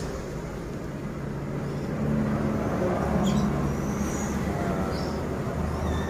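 A low, steady rumble with a few faint, short, high chirps from a caged songbird scattered through it.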